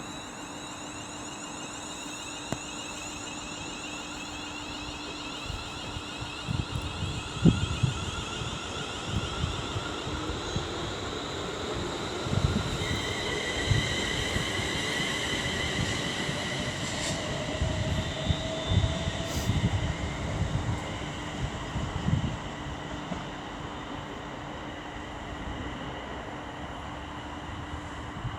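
Class 350 Desiro electric multiple unit pulling away, its traction equipment giving a whine in steady tones that step up in pitch as it gathers speed. Wheels knock irregularly over the rail joints from about six seconds in.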